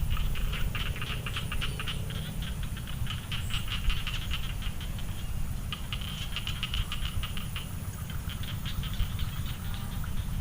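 Frogs calling in rapid clicking trains of about ten pulses a second, with brief pauses, over a steady low rumble.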